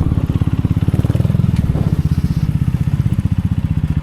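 Motorcycle engine running at a steady low speed under way, its exhaust pulsing evenly.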